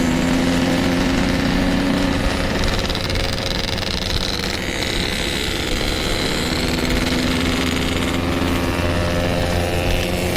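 Yamaha RX King's 135cc two-stroke single running steadily at light throttle; its note eases off about two and a half seconds in and picks up again around seven seconds.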